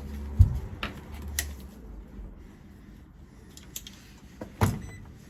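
Handling clicks and knocks as multimeter probes are set on low-voltage thermostat wiring, with a louder knock about half a second in and another near the end. A low hum runs under the first second and a half.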